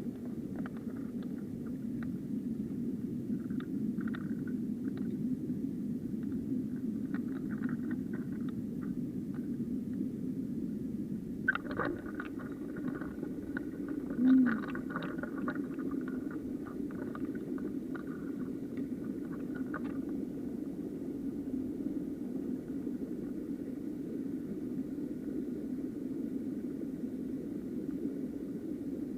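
Steady low rush of a small mountain stream's flowing water. Faint higher clicks come and go over the first twenty seconds, and a short low thump about fourteen seconds in is the loudest moment.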